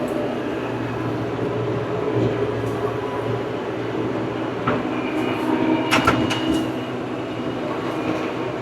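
Old tractor's engine running steadily, with a few sharp metallic clanks and rattles in the second half.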